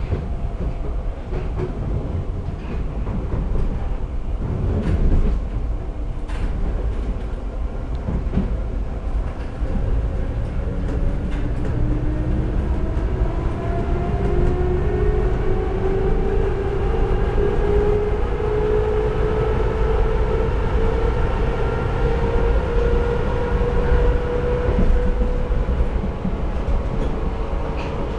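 Budapest Metro line 2 train running in the tunnel, with a steady rumble and scattered clicks of the wheels over the rails. About ten seconds in, a motor whine sets in and climbs slowly in pitch as the train gains speed, then holds steady near the end.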